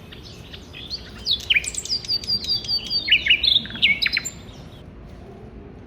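A songbird singing a rapid, varied song of chirps and falling whistles, starting about a second in and stopping about four seconds in.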